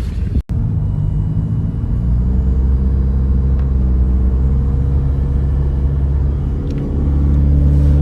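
Jet ski engine running at a steady speed with a low, even drone, a little louder about seven seconds in.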